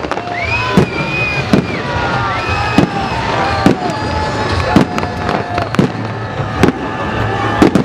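Aerial fireworks shells bursting, about eight bangs roughly a second apart, over the voices of a watching crowd.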